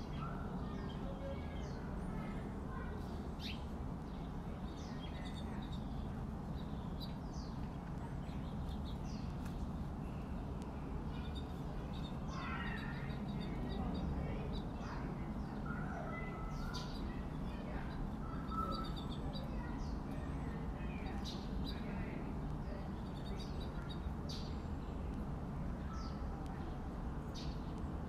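Small songbirds chirping and calling: many short high chirps scattered throughout, with a run of lower warbling calls about halfway through, over a steady low background rumble.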